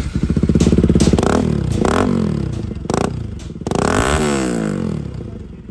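Bajaj Pulsar NS single-cylinder motorcycle engine running through a newly fitted aftermarket Akrapovic full-system exhaust. It idles, is blipped three quick times, then given one longer rev about four seconds in that climbs and falls back to idle.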